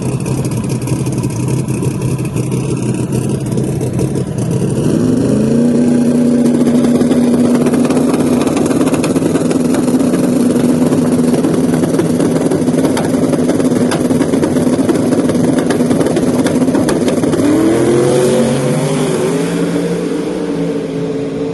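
Drag car engine running loud and rough at low revs, then revving up about five seconds in and holding a steady high rev for around twelve seconds. Its pitch climbs again near the end.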